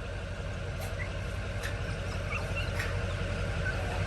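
A vehicle engine idling steadily, with a few faint short high chirps over it.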